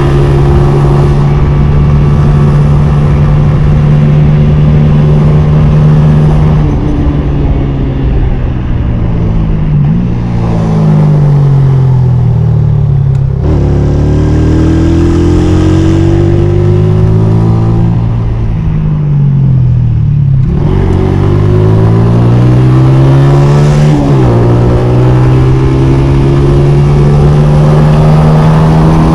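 Honda CG 125 motorcycle's single-cylinder four-stroke engine running at a steady speed, then revving up and easing off several times in a row, with abrupt pitch changes like gear shifts, before settling back to a steady note for the last few seconds.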